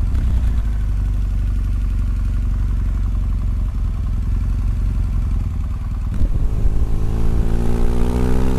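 Motorcycle engine heard from the rider's seat, running steadily at low road speed; about six seconds in it gets louder and its note rises steadily as the bike accelerates hard.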